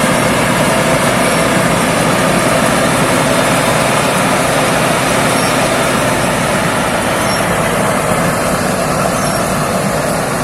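Thai Seng Kankaset rice combine harvester running steadily at work in the field: a loud, even mechanical noise from its engine and harvesting machinery.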